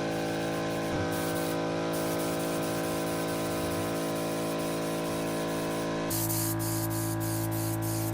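Background music with steady sustained tones over a continuous hiss of a spray gun applying paint; the hiss gets louder and brighter about six seconds in.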